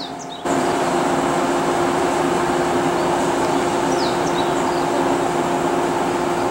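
115-series electric train rolling slowly into a station as it slows to stop: a steady rumble of wheels on rail with a steady hum. It gets suddenly louder about half a second in.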